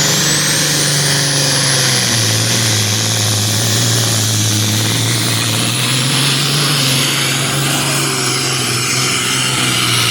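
1980 Kenworth semi tractor's diesel engine pulling hard against a pulling sled at high revs, with a high turbocharger whistle that rises at the start and then holds. The engine note drops about two seconds in and climbs again near the middle.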